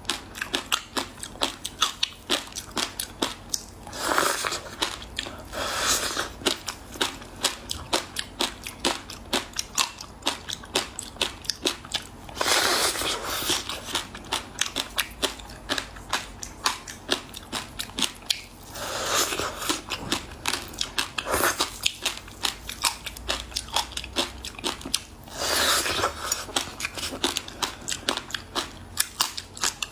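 Close-up biting and chewing of frozen passion fruit ice: rapid sharp crunches and cracks, with a louder crunching bite about every six seconds.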